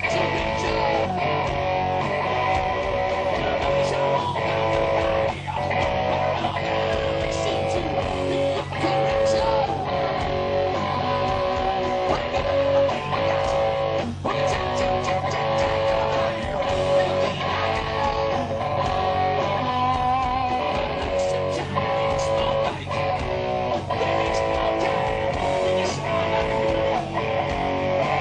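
Live rock music from a band playing without vocals: electric guitar with bass, some notes bent in pitch.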